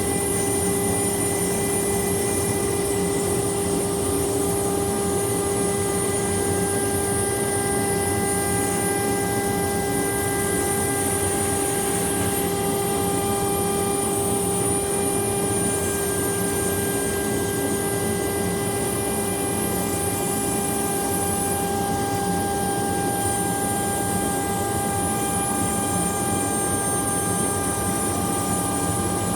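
CNC milling machine's spindle cutting a 3 mm aluminium panel, running steadily: a constant whine over a dense rushing noise with a high hiss.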